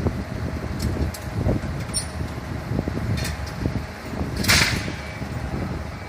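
A large vehicle's engine running with a steady low rumble and a few light clicks, and a short loud hiss about four and a half seconds in.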